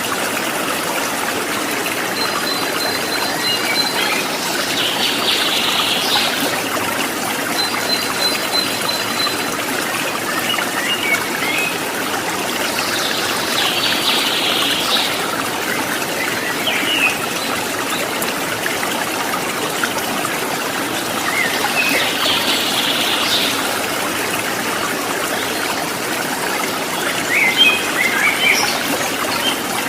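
Water trickling and splashing steadily, with birds calling over it: a buzzy call about every eight or nine seconds, two rapid high trills in the first third, and scattered short chirps, several together near the end.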